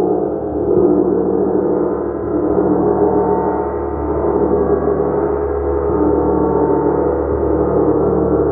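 Gong played continuously: a dense, sustained wash of many overlapping ringing tones that swells and ebbs every couple of seconds.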